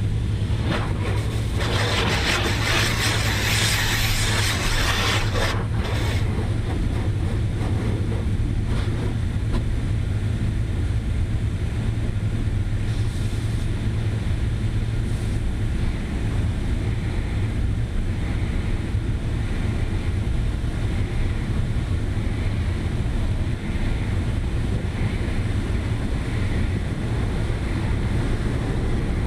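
Steady road and engine noise of a moving truck heard from inside the cab: a constant low rumble with a rushing, wind-like hiss that swells louder for a few seconds near the start.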